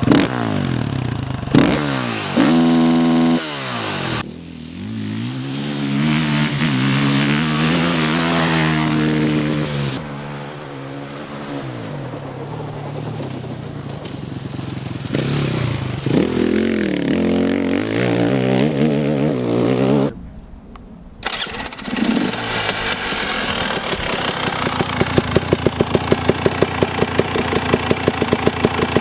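Husqvarna enduro dirt bike on its stock exhaust, blipped and revved up and down several times. After a brief dip about two-thirds through, it settles into a steady idle with an even, rapid pulse.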